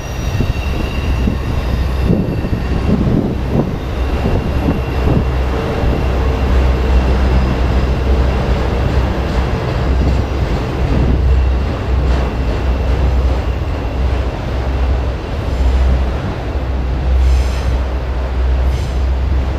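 Enclosed autorack freight cars rolling steadily past at close range: a continuous heavy rumble of steel wheels on rail, with a thin high wheel squeal coming and going.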